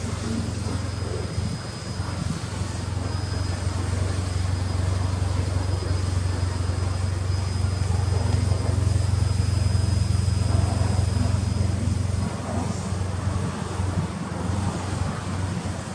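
Mitsubishi Lancer Evolution X's turbocharged 2.0-litre four-cylinder engine running steadily through a Tomei titanium aftermarket exhaust, a low continuous drone that swells slightly in the middle.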